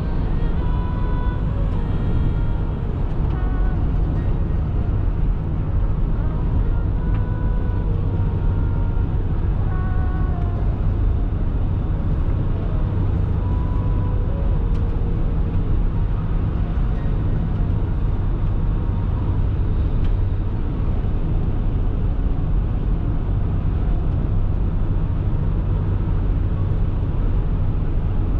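Steady low drone of a car driving along a snowy highway: engine and tyre noise with a constant low hum. Faint short high tones come and go in the first half.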